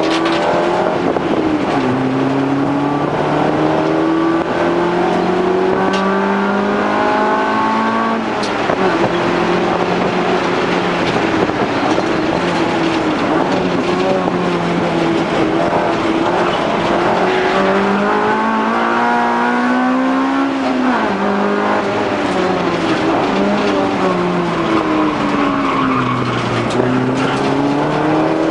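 Honda Civic race car's four-cylinder engine heard from inside the cabin at racing speed on a lap. The engine note climbs steadily in pitch under acceleration, drops sharply about eight seconds in and again around twenty-one seconds, then rises and falls through the following corners.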